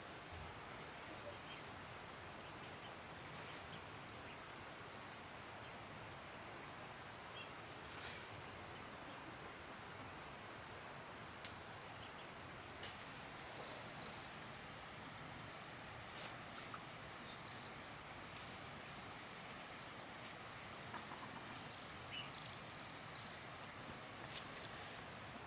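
Insects calling in the countryside: a high, steady drone that stops about halfway through, followed by fainter, pulsing insect chirps. Scattered sharp clicks run throughout, one of them louder near the middle.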